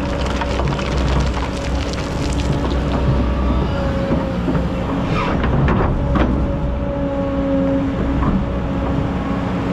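Excavator engine running steadily, with scattered knocks and scraping as it digs sand.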